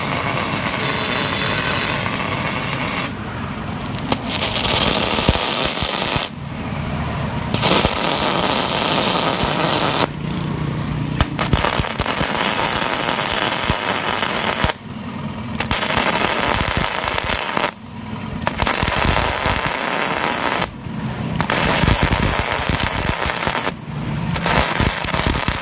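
Welding arc from a 500A MIG/stick welding machine, crackling and hissing in runs of two to three seconds with short breaks between them, about eight runs in all.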